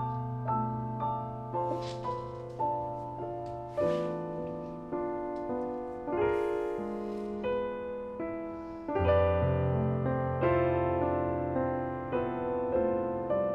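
Slow solo piano music, single notes struck about twice a second over held bass notes. About nine seconds in, a deeper bass line comes in and the music grows fuller and louder.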